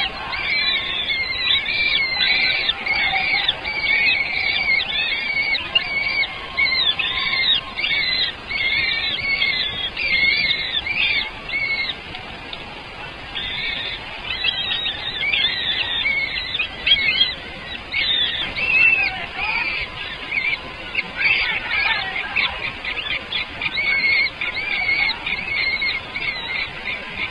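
Baby birds in the nest begging: many shrill, rapid chirps overlapping in a continuous chorus, easing off briefly about halfway through before picking up again.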